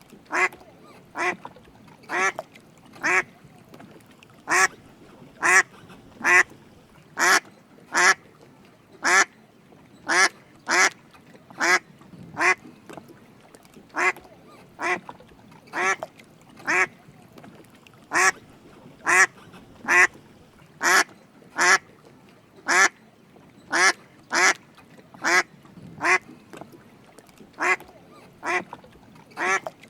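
Drake mallard quacking: a long, steady run of short quacks, roughly one a second.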